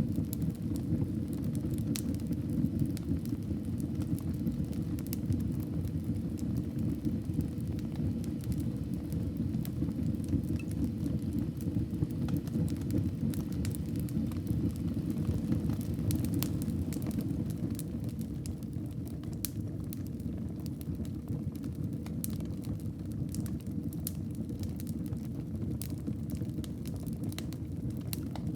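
Wood fire burning in a fireplace: a steady low rumble with many irregular sharp crackles and pops from the burning wood.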